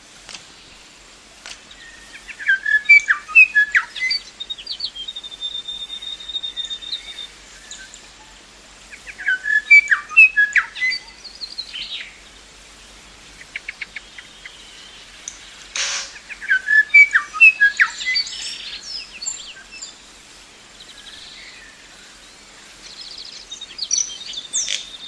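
A songbird singing, in three loud phrases about seven seconds apart. Each phrase is a quick jumble of chirps and clear notes, with a held whistle after the first, and a sharp click stands between the second and third.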